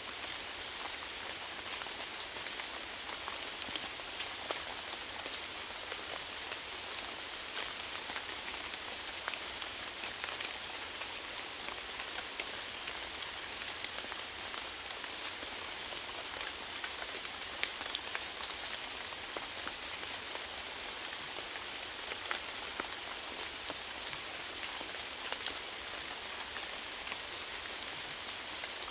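Steady rainfall hitting a surface, a constant hiss with many individual drops ticking sharply throughout.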